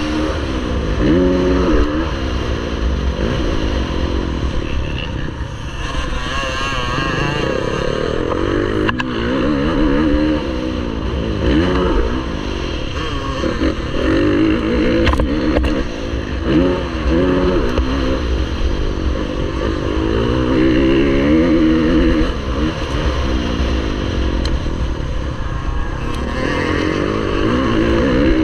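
MX1 motocross bike engine racing, its pitch repeatedly rising and falling as the throttle is opened and closed and the gears change.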